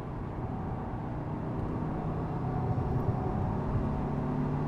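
2015+ Subaru WRX's turbocharged 2.0-litre flat-four pulling under throttle in second gear, heard from inside the cabin, its note growing gradually louder along with road noise. On its Stage 1 e-tune it keeps pulling past 4,000 RPM instead of falling flat.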